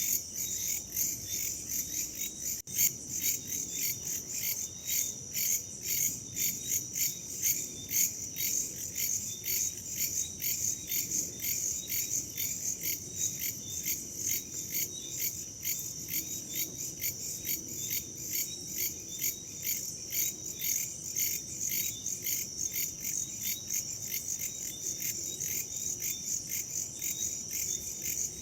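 Crickets and other insects chirping in a dense, high-pitched chorus that pulses in a fast, even rhythm, with a low rush of wind beneath.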